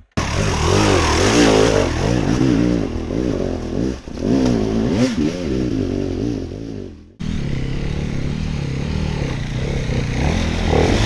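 Off-road motorcycle engine revving hard and unevenly under load, the pitch rising and falling with the throttle as the bike works up a rocky climb. The sound cuts off abruptly about seven seconds in and picks up again at a steadier pitch.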